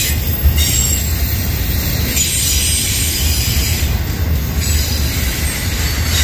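Intermodal freight train cars rolling steadily past, with a low rumble and high-pitched wheel squeal.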